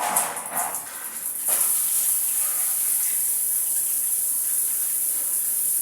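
Tap of a wash basin running, a steady hiss of flowing water that starts about a second and a half in.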